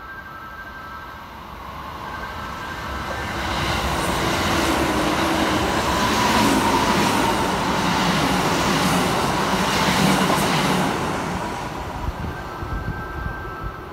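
Kintetsu electric train passing through a station at speed without stopping: it builds over about two seconds, runs loud for about seven seconds with a regular clack of wheels over rail joints, then fades.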